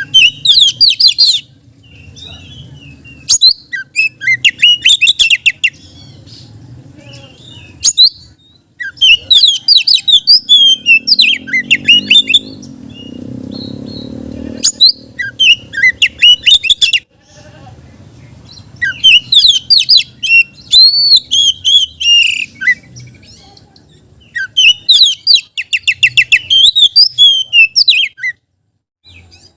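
Oriental magpie-robin (kacer) singing loudly in bursts of rapid, varied high whistles and chattering trills, each phrase lasting a second or two and repeated every few seconds. A faint low hum runs underneath and swells briefly in the middle.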